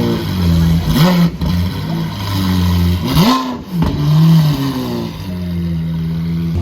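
Lamborghini Aventador V12 engine idling and being blipped, about three quick revs that rise and fall back to idle.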